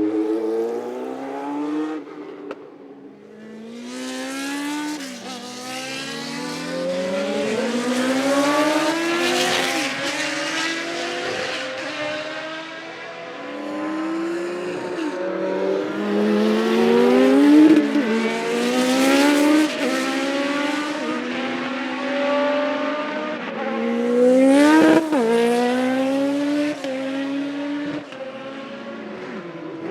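Classic Formula 1 car engine at high revs, accelerating hard through the gears: the pitch climbs and snaps down with each upshift, over and over, growing louder a few seconds in.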